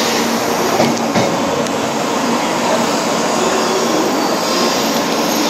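700 Series Rail Star Shinkansen train running slowly alongside the platform: a steady rush of wheels and air, with a couple of faint clicks about a second in.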